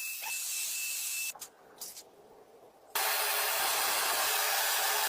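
Aerosol spray can hissing in two long bursts, the first stopping about a second in and the second starting near the three-second mark, with a few light clicks and taps in the gap: spray-painting the restored pipe wrench.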